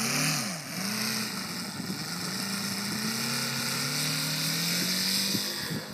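Model-aircraft O.S. seven-cylinder four-stroke radial engine running. Its pitch swings up and back down in the first second, then climbs slowly over the next few seconds.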